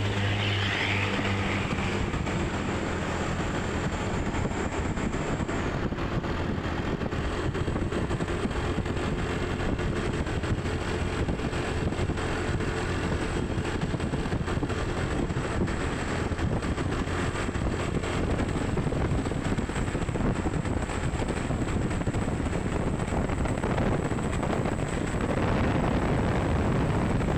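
A vehicle on the move: steady engine, tyre and wind noise, with a low engine hum clearest at the start.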